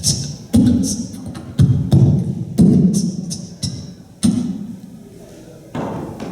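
A performer's percussive vocal sounds, beatbox-like, as a string of short sharp hits in an uneven rhythm, about eight of them.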